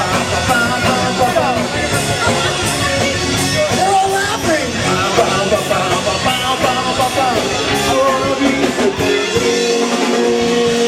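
Rock music with singing and electric guitar, played live by a band.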